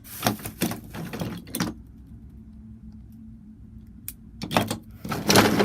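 Clicks, clatter and rustling as small toy train trucks are handled and taken out, loudest near the end, with a quieter stretch in the middle carrying a low steady hum.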